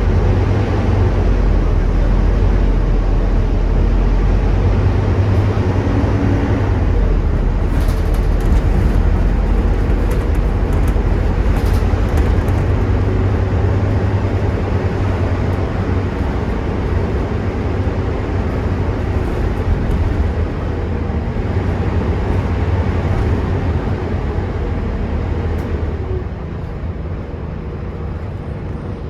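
Volvo B9TL double-decker bus's six-cylinder diesel engine running under way, heard from inside the passenger cabin, with a few brief rattles about a third of the way in. The engine eases off near the end.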